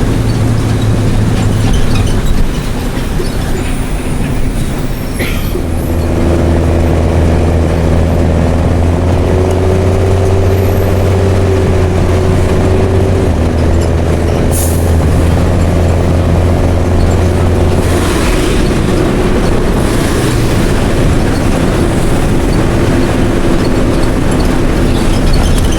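Mercedes-Benz OM366LA six-cylinder turbo-diesel of a city bus running through an open, unmuffled exhaust. The sound dips briefly a few seconds in, then a strong low drone pulls steadily for about twelve seconds before easing off.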